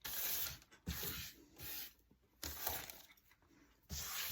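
Dry craft hay rustling and crackling as it is handled and pushed around by hand, in about five short bursts.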